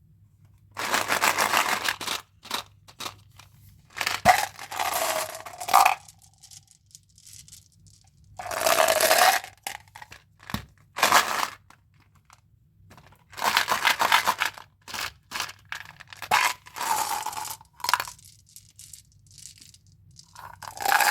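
Mentos candy packaging being torn open and crinkled in repeated bursts of a second or two, with short clicks between them as the hard candies knock and drop.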